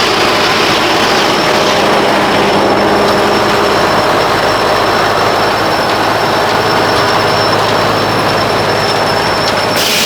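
An engine running steadily, changing abruptly near the end.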